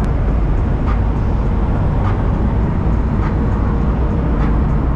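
Steady low engine and road rumble heard inside the cabin of a BMW E36 on the move, with a faint tick repeating a little more than once a second.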